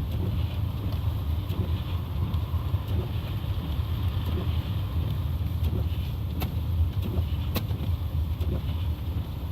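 Steady low rumble of a four-wheel-drive vehicle driving on a snow-covered road, heard from inside the cabin, with a couple of faint clicks in the second half.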